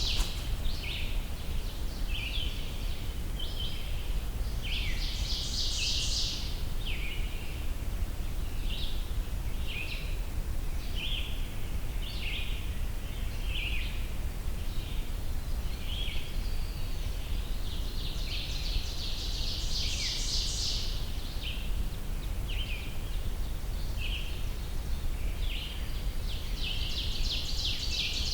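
Songbirds singing and calling: a short burst of high song about five seconds in, again about nineteen seconds in and near the end, with many brief high notes in between, over a steady low rumble.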